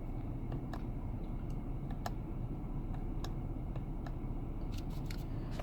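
Steering-wheel control buttons being pressed to scroll through the instrument-cluster menus: soft, irregular clicks, about a dozen, over a steady low hum in the car's cabin.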